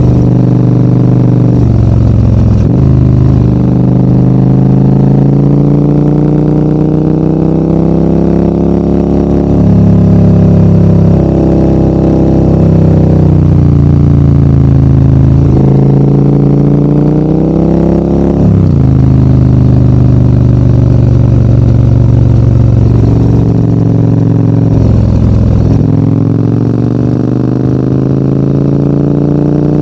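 Adventure motorcycle engine under way uphill, its pitch climbing steadily under throttle and then dropping sharply a few times as the rider shifts or eases off.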